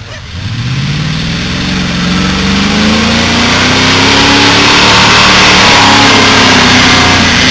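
Off-road buggy's engine revving hard under load as it drives through mud: the pitch climbs steeply in the first couple of seconds, stays high and eases off near the end. A loud hiss grows alongside the engine.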